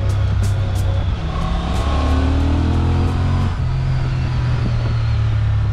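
Honda Transalp's 755 cc parallel-twin engine pulling under acceleration on the road, its note rising, with a brief drop and change in pitch about three and a half seconds in, like an upshift.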